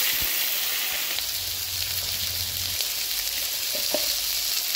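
Chunks of taro and potato frying in hot oil with seeds in a kadai: a steady sizzling hiss.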